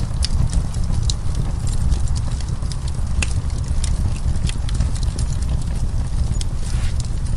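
Wood fire crackling: frequent sharp, irregular pops and crackles of burning wood over a steady low rumble of the flames.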